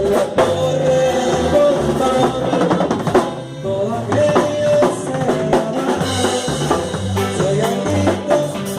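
Norteño band music, an instrumental passage without singing: a drum kit keeps a steady beat with snare rimshots and bass drum under a walking bass line and a sustained melody line.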